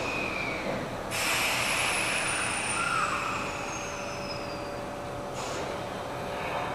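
Kintetsu 9820 series electric train standing at the platform: a hiss of air starts about a second in, over a steady hum.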